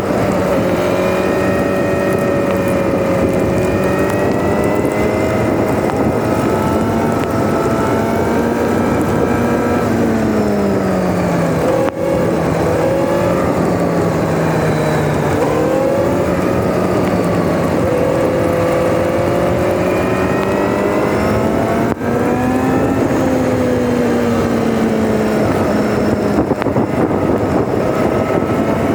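Kawasaki Z900RS inline-four running through an SP Tadao POWERBOX full 4-into-1 titanium exhaust while the bike cruises, the exhaust note rising and falling gently with the throttle. Twice, about twelve and twenty-two seconds in, the sound drops for an instant. The recording is played at double speed, which raises the pitch.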